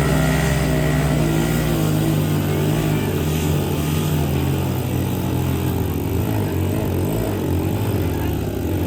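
Motorcycle engines running steadily at high revs, straining under load as two bikes pull against each other in a tug-of-war.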